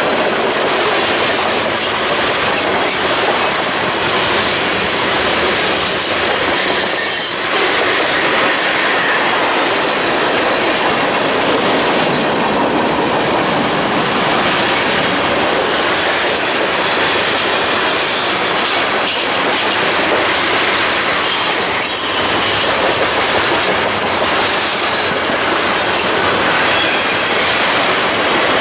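Train cars rolling past, a loud, steady noise of steel wheels on rail that runs on without a break.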